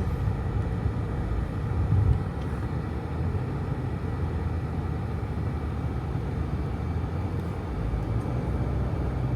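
Car driving on a country road: steady low rumble of engine and tyres, swelling briefly about two seconds in.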